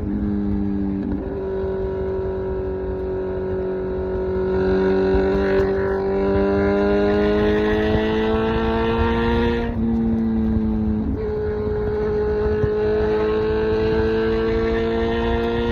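Kawasaki Z900's 948cc inline-four running through an SC Project exhaust under way, its pitch climbing steadily as the bike pulls. About ten seconds in the note breaks and drops for a moment, then climbs again.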